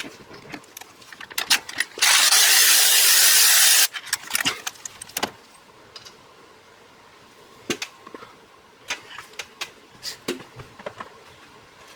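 Metal clinks of bolts, sockets and tools being handled. About two seconds in, a power ratchet runs steadily for nearly two seconds, spinning a water pump bolt out.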